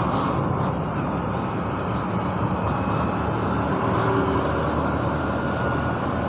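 Motorcycle running on the road, a steady engine and road noise.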